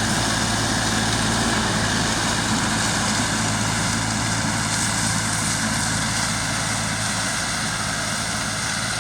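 Engine of a forestry land-clearing robot running steadily under load, a constant low hum with a broad noise over it.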